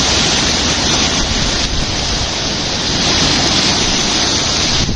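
Steady rushing roar of a large whirlpool sucking water down, thunderous with a low rumble underneath.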